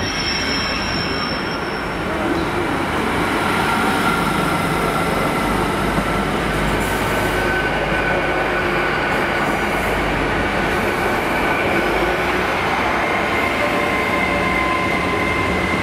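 GWR Class 800 Intercity Express Train running along the platform, growing louder over the first few seconds as it draws alongside. A thin, steady, high-pitched wheel squeal sounds over the rolling noise.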